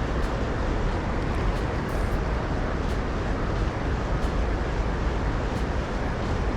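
Steady road traffic noise from a bridge: a continuous rushing hiss over a low rumble.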